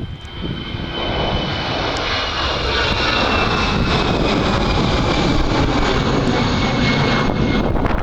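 Airbus A320-214 jet engines at takeoff power: a steady roar that swells over about the first second, with a high whine slowly falling in pitch as the jet goes by.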